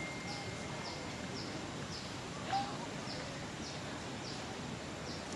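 Rainforest ambience: a short high chirp repeated evenly about twice a second over a steady background hiss, with one brief falling call about halfway through.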